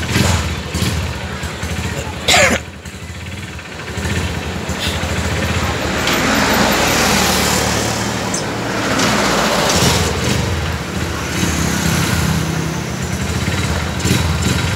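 Motorcycle engine idling close by, with traffic on the road: a vehicle swells past about six to eight seconds in. A short, loud high-pitched sound cuts in about two seconds in.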